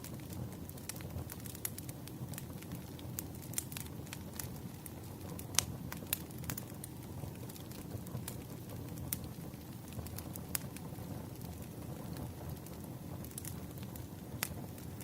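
Burning firewood crackling: a steady low rumble of flames with scattered sharp pops and snaps, the loudest about five and a half seconds in.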